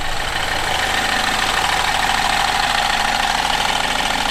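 BMW F30 320i ED's N13 1.6-litre turbocharged four-cylinder engine idling steadily, with a steady whine over the engine note. The engine has just been started after an oil and filter change and is being run to check for any bad noises.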